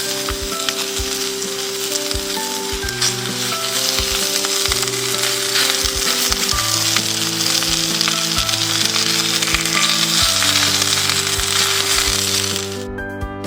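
Food sizzling in a frying pan, a dense hiss with scattered pops, over background music with slow held notes. The sizzling cuts off abruptly just before the end.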